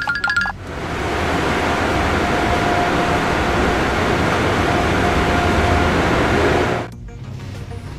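Cartoon car-wash machinery sound effect: a loud, steady rushing hiss that swells in after a brief end of music and cuts off suddenly about seven seconds in.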